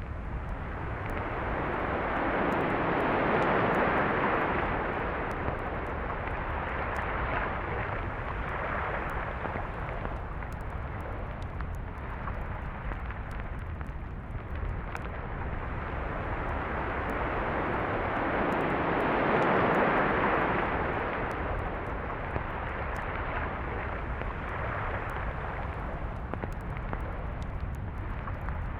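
Ocean surf on a beach: a continuous wash of waves, with two louder surges as larger waves break, a few seconds in and again about two-thirds of the way through.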